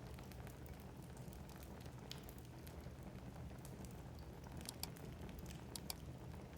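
Wood logs burning in a fireplace: a quiet, steady low rumble of flame with scattered sharp crackles and pops, coming more often about five to six seconds in.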